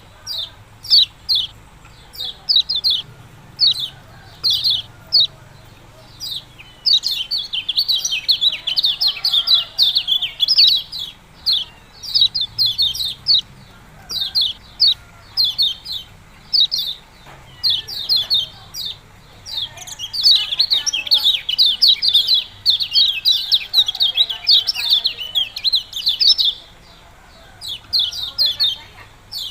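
Kecial kuning (a white-eye) calling: sharp high chirps repeated in quick series, with two longer runs of rapid chirping, one about seven seconds in and one about twenty seconds in.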